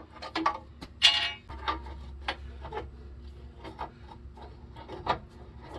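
Seized rear brake drum being worked off the axle: metal scraping and irregular clanks, with one ringing metallic clank about a second in.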